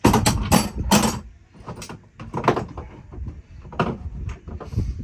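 Metal clanking and rattling of hand tools and parts being handled while an engine is disconnected: a quick run of knocks in the first second, then scattered single clinks.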